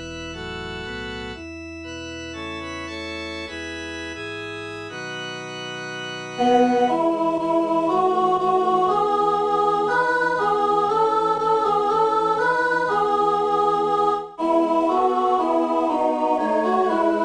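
Organ-sounding keyboard music for a four-part Catholic hymn, made as a part-learning track for the alto line. It opens with sustained chords. About six and a half seconds in it grows louder, and a wavering melody moves over the chords. The sound breaks off for a moment near the end and then goes on.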